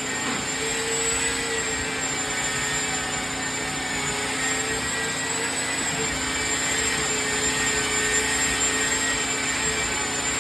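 Electric belt sander fitted with a 120-grit belt running steadily against a log wall: a constant motor whine over the rasp of the sanding belt, its pitch dipping and recovering slightly as the load changes.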